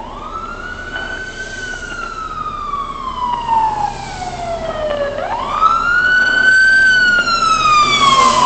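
Emergency vehicle siren on a wail: each cycle rises quickly and then falls slowly over about five seconds, growing louder toward the end.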